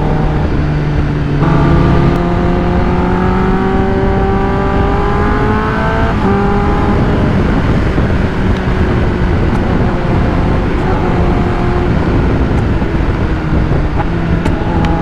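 Sport motorcycle engine under hard acceleration, its note climbing steadily for about four seconds from the moment the throttle opens. About six seconds in the pitch drops as the rider rolls off, and the engine runs on more evenly while the bike slows. Wind rush throughout.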